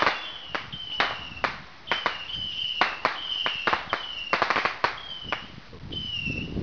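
Fireworks and firecrackers going off: a string of sharp bangs at irregular intervals, with a quick run of crackling about four and a half seconds in. Between the bangs come repeated short whistles, each falling slightly in pitch.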